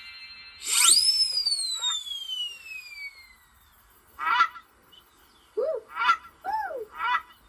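A long whistle that falls slowly in pitch starts about a second in, followed by a few short, goose-like honking calls.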